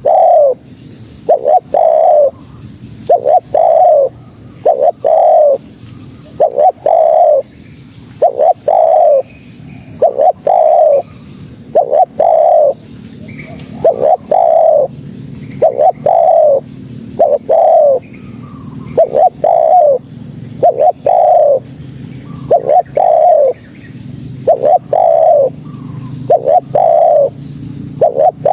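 Female spotted dove (tekukur) calling to males: a steady series of loud, short coos, roughly one a second, each note sliding slightly down in pitch.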